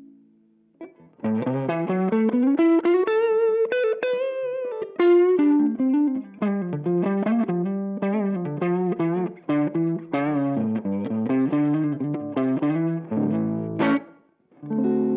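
Electric guitar played through a TC Electronic MojoMojo overdrive pedal: a single-note lead line with string bends and vibrato starts about a second in. It stops briefly near the end, then a chord rings out.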